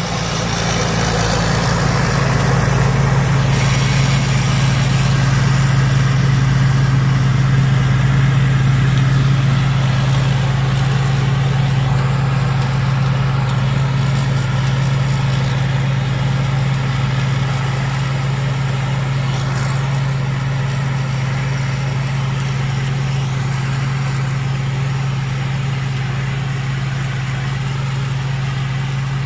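Thai Seng Yont Chao Phayu 4.0 combine harvester running steadily under load, its engine hum low and even with a thin steady high whine over it; it grows a little louder in the first several seconds, then eases and holds.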